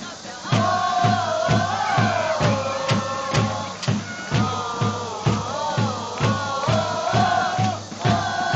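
Football supporters singing a chant together in unison over a steady bass drum beat of about two and a half beats a second.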